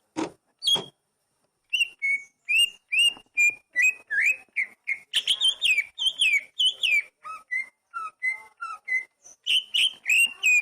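Oriental magpie-robin (kacer) singing: two short harsh notes at the start, then a fast run of short whistled notes that slide up and down in pitch, in phrases with brief gaps.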